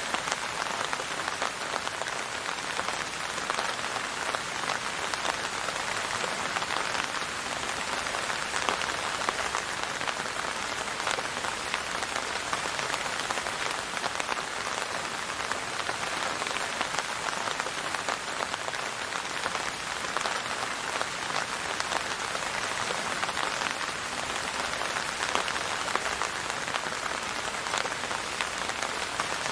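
Steady rain falling and pattering on a surface, many fine drop ticks over an even hiss, with no change in strength.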